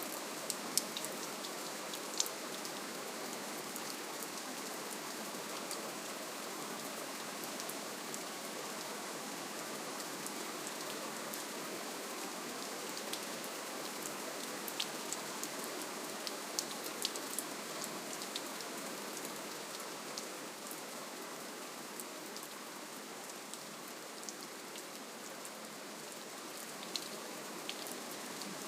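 Steady, gentle rainfall: an even hiss of rain with scattered sharp drip ticks of individual drops striking a surface.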